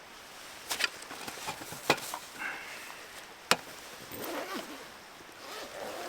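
Three sharp knocks, about a second or more apart, amid rustling and handling noise, with a brief faint squeak in between.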